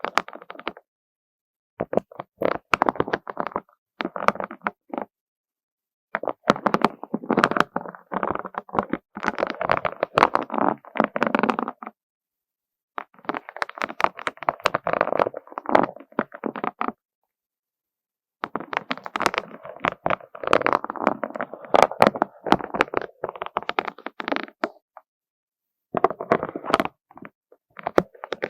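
Colourful beads clattering and rattling against one another in busy runs of small clicks, coming in several stretches of a few seconds each, broken by brief complete silences.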